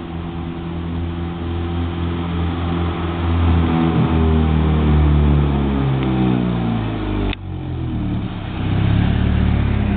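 Exhaust note of a 2001 Honda Accord four-cylinder with an aftermarket header and exhaust piping, the engine speed falling gradually over several seconds. About seven seconds in the sound breaks off abruptly and goes on as a steady lower drone that grows louder near the end.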